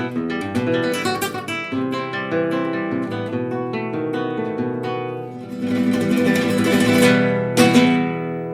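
Acoustic guitar music: quick plucked notes, then fuller strummed chords with two sharp strokes near the end, the last chord ringing out and fading.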